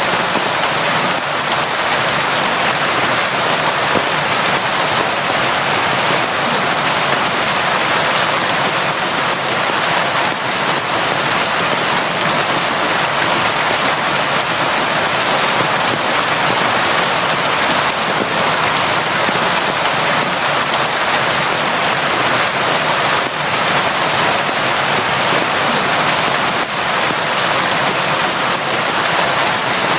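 Steady, constant rain, a dense even hiss of drops falling on surfaces.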